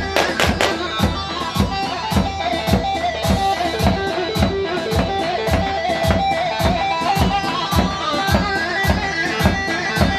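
Instrumental halay dance music: a fast plucked-string lead melody over a steady, driving beat of about four strokes a second.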